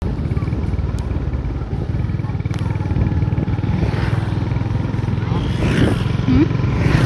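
Motor scooter engine running steadily as it rides along, heard from the rider's seat, getting a little louder after about three seconds. Two sharp clicks come in the first few seconds.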